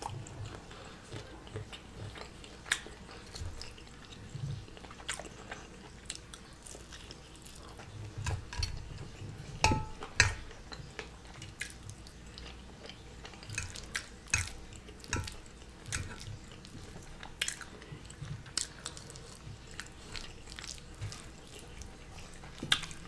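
Close-miked chewing and wet mouth sounds of a person eating a bite of fried scrapple, with scattered small clicks. Now and then a metal fork clinks against the ceramic plate, once with a short ring about ten seconds in.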